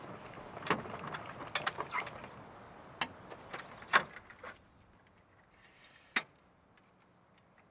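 Light clicks and knocks of small objects being handled, coming thick in the first four seconds, then one sharp click about six seconds in.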